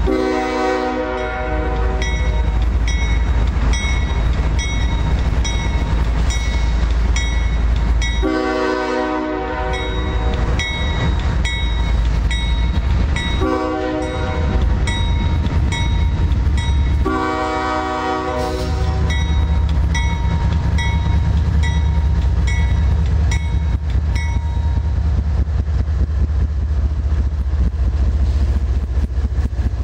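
Freight locomotive horn sounding the grade-crossing signal, long, long, short, long, over a crossing bell ringing about once a second. The diesel engines rumble louder as the train draws up near the end.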